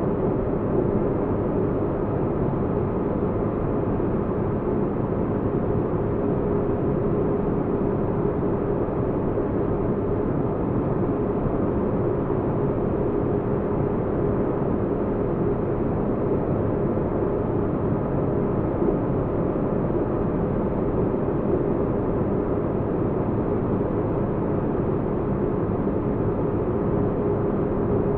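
Sci-fi spaceship interior ambience: a steady deep rumble of muffled noise with a faint constant hum, unchanging throughout.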